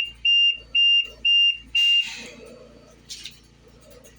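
A series of five steady, high-pitched beeps, about two a second, stopping about two seconds in, followed by a short hissy rasp and another brief one about a second later.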